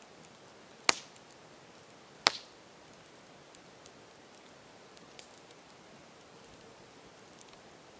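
Campfire burning with a soft steady hiss and scattered small crackles. Two loud, sharp pops come about a second in and again a second and a half later.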